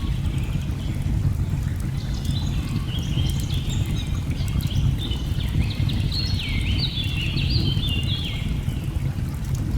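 Steady low rush of a waterfall mixed with the light crackle of a wood fire, while a bird sings a run of quick, high, stepping notes from about two seconds in until shortly before the end.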